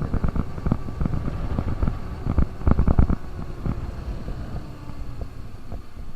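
KTM RC 200's single-cylinder engine running on the road, its exhaust pulsing unevenly. It grows louder a little before halfway, then eases off.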